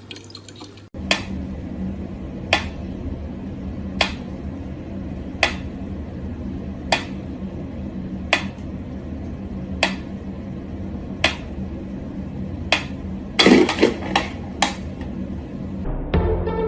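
Sharp taps or knocks, like something hard striking a dish or glass, repeating evenly about every one and a half seconds over a steady low hum, with a brief louder cluster of sounds a little before the end.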